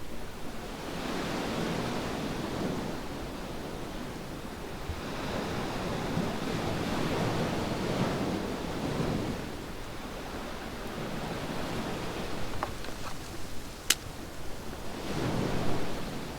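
Sea waves washing onto a beach, surging in slow swells three times, with a few sharp pops from a wood campfire near the end.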